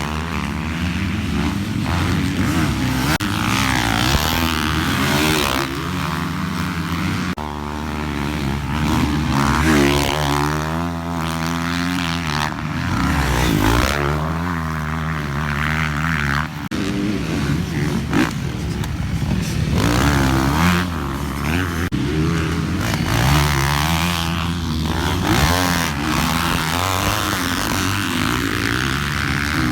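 Motocross dirt bike engine revving up and down over and over as it is ridden around the track, its pitch rising and falling with each throttle run and shift.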